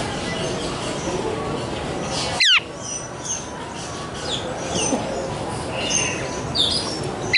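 Aviary birds calling: a scatter of short chirps and whistles, broken twice by a loud, brief screech that falls steeply in pitch, once about two and a half seconds in and again at the end.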